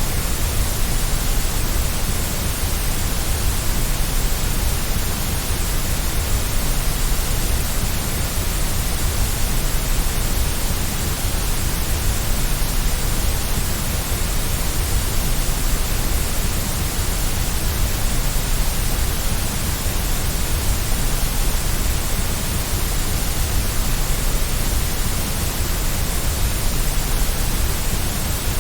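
Steady, unbroken white noise, an even hiss with a low rumble beneath it, played to soothe a baby to sleep.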